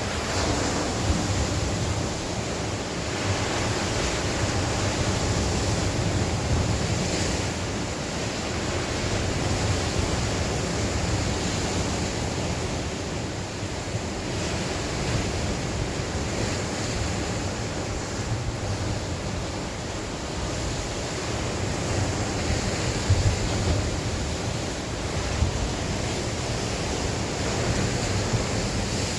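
Sea waves breaking and washing on the shore in a steady surge, with gusting wind buffeting the microphone as a low rumble.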